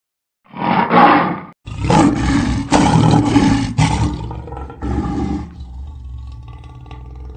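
Big cat roaring: a short roar, then after a brief gap a longer roar that gradually weakens and cuts off abruptly near the end.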